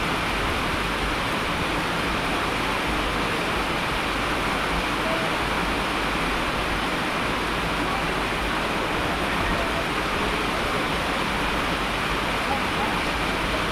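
Steady, unbroken rush of falling water, a dense even hiss like heavy rain or a waterfall.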